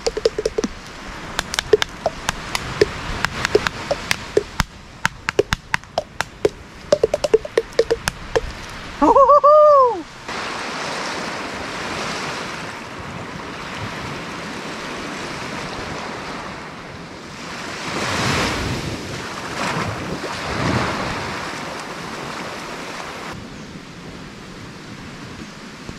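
Loud snaps and crackles from a campfire for the first several seconds. About nine seconds in there is one loud high call of about a second that rises and falls. After it comes the steady wash of waves on the beach, swelling a little near the end.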